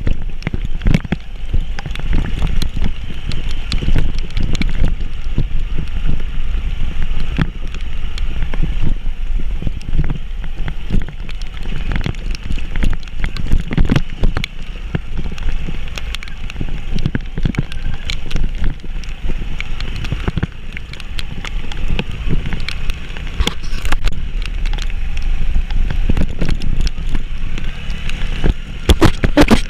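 Vehicle driving over a rough mountain road: a steady low rumble with wind buffeting the microphone and frequent irregular knocks and rattles.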